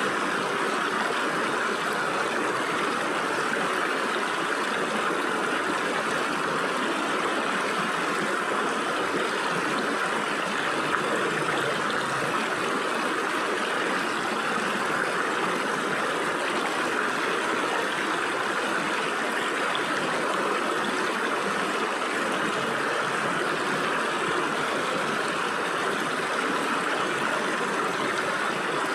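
Stream water flowing and splashing through gaps between rocks, a steady rushing and gurgling.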